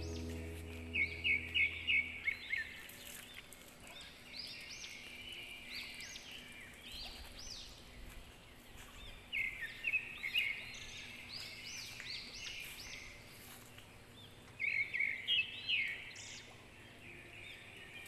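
Wild birds calling in quick series of short, repeated chirps. The loudest bursts come about a second in, around the middle, and near the end, over a faint outdoor background.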